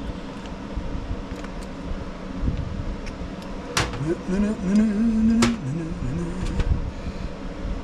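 Small carburetor parts handled on a workbench: a few sharp clicks, two of them loud about four and five and a half seconds in, over a steady low rumble. A man's voice sounds briefly without words in the middle.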